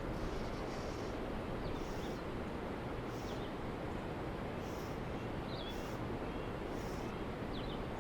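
Steady rush of a small stream, with a handful of short, high bird chirps over it.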